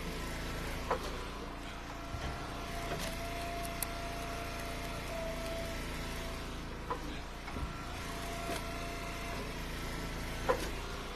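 Hydraulic wood splitter's engine running steadily, with a higher whine held for several seconds early on while the ram works. About four sharp knocks of split ash firewood land in the truck bed.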